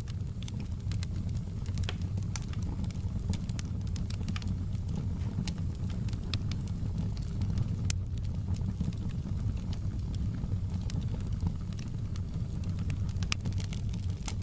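Wood fire burning in a fireplace: a steady low roar of the flames with irregular sharp crackles and pops, several a second.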